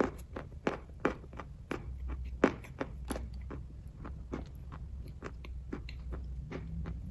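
Close-up chewing of kaju katli (cashew fudge): wet mouth clicks and smacks come two or three times a second, the loudest about two and a half seconds in, over a low steady hum.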